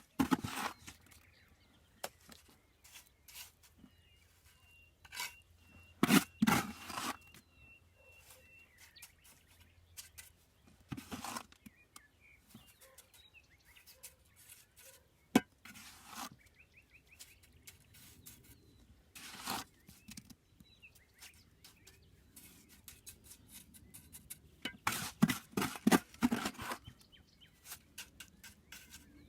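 Masonry work: scattered scrapes and knocks of tools on brick, stone and mortar, in short bursts with pauses between, busiest about six seconds in and again near the end.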